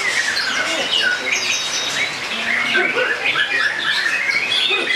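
Many caged songbirds singing at once in a dense, overlapping chorus of quick chirps, trills and squawks that runs without a break.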